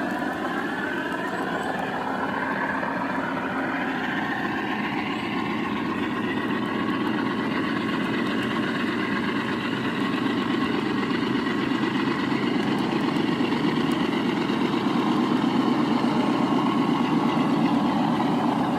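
ESU LokSound decoder in a G scale Dash-9 model locomotive playing diesel engine sound through its speaker. The engine pitch rises over the first few seconds as it throttles up, then runs steadily while growing slowly louder.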